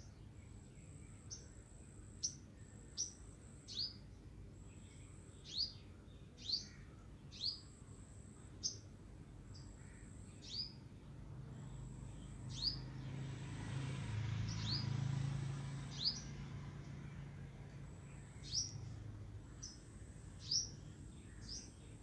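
A small bird chirping over and over: short high notes that drop quickly in pitch, about one a second. A low rumble swells and fades in the middle.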